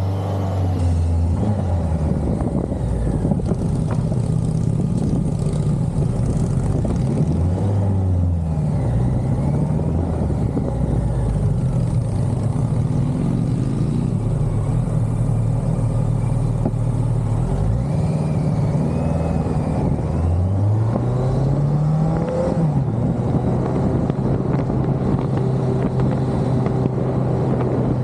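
BMW K100's inline four-cylinder engine running while the motorcycle is ridden. Its pitch rises as it accelerates, about a third of the way in and again about three quarters of the way through, and drops back between gear changes.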